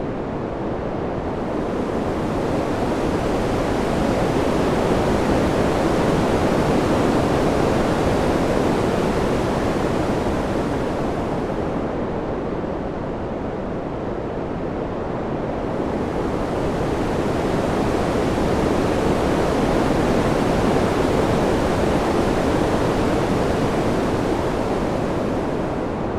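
Wind: a steady rushing noise that swells and eases in two slow gusts, the hiss brightening as each one builds.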